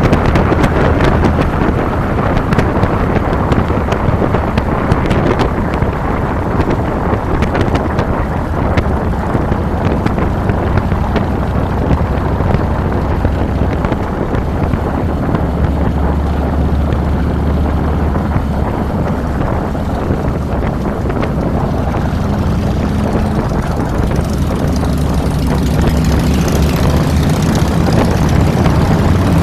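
2007 Harley-Davidson Fat Boy's Twin Cam 96 V-twin running under way, heard from the handlebars with wind rushing over the microphone. The engine note climbs in the last few seconds as the bike picks up speed.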